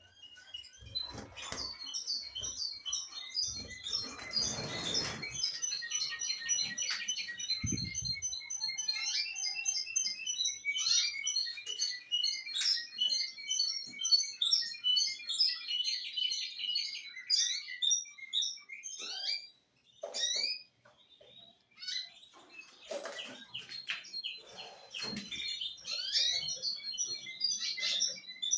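Small caged birds chirping and singing, many short overlapping chirps and trills, with a few rustles and a low thump in between.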